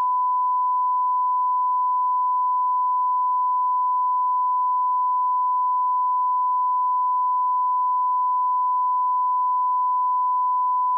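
Steady 1 kHz sine-wave line-up tone at −18 dBFS, the reference level for checking audio levels, held at an unchanging pitch and loudness.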